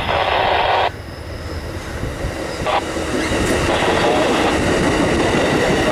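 A short burst of radio static that cuts off abruptly after about a second, then an Amtrak passenger train approaching and passing, its rumble building from about three seconds in.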